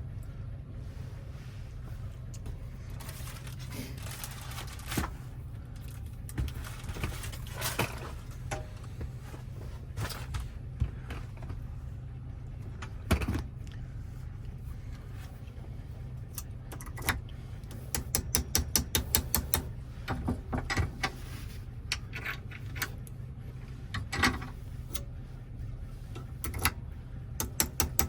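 Keys and small metal lock parts clicking and clinking as they are handled over a steady low hum. Two runs of rapid, even ticking come about two-thirds of the way in and again near the end.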